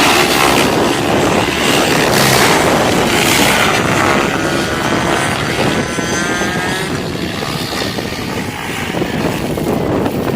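Electric SAB Goblin 700 RC helicopter in flight: main rotor blades swishing rapidly, with a whine from the brushless motor and drivetrain that bends up and down in pitch in the middle as the headspeed and load change.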